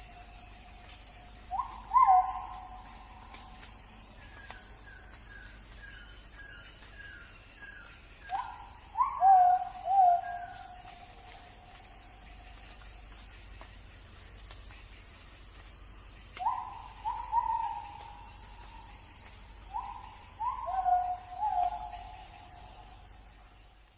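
Outdoor evening chorus: a bird giving low whistled calls that rise quickly and then hold, in groups of two or three, while another bird repeats a run of short higher notes. Steady high-pitched insect drone underneath.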